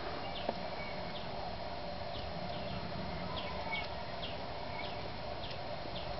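Small birds chirping in short, high notes, irregularly about twice a second, over a steady low background hum.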